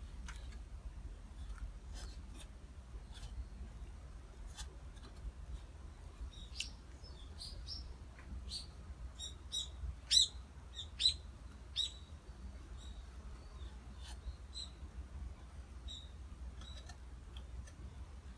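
Small bird chirping: a run of short, high chirps in the middle, loudest about ten seconds in, over a low steady rumble.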